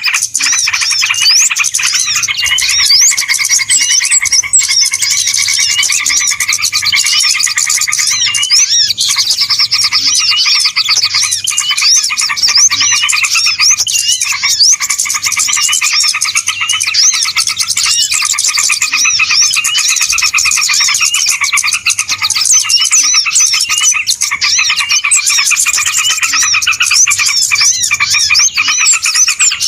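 A dense chorus of many small birds chirping and twittering at once, with calls overlapping without a break: a bird-lure (pikat) recording of a noisy flock, used to draw wild birds in.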